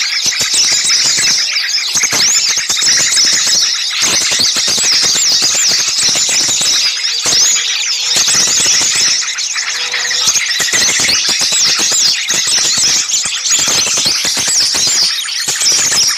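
A noisy chorus of many small songbirds chirping and calling over one another without pause: a bird-lure recording made to draw small birds in.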